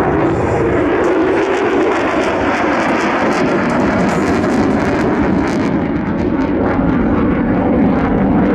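F-35C fighter jet's F135 engine, heard as loud, steady jet noise with a crackle on top. About six seconds in the crackle and hiss fade, leaving a lower rumble.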